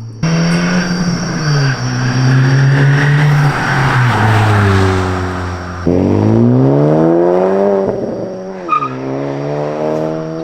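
10th-gen Honda Civic Si's turbocharged 1.5-litre four-cylinder through a MAP catback exhaust, pulling away hard: the engine note climbs and drops several times as the car accelerates and changes gear, with a gritty rasp in the first half.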